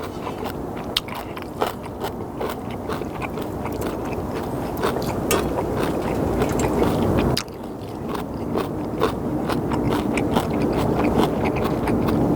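Close-miked eating of instant ramen: chewing and slurping noodles, with many small sharp clicks. The noisy sound drops off abruptly about seven seconds in, then builds again.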